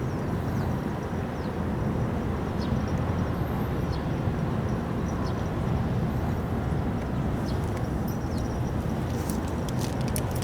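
Steady low rumble with a few faint clicks near the end.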